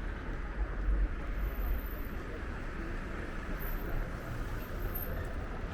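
Steady city street ambience of passing traffic, with a continuous low rumble.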